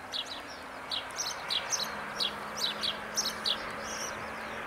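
Small birds chirping: short, high, falling chirps, several a second, over a steady background hiss.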